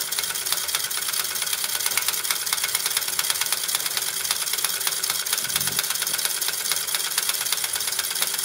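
Clockwork toy beam engine running off its wound spring: the spring motor's gear train and moving parts make a rapid, even mechanical ticking whirr that keeps a steady pace.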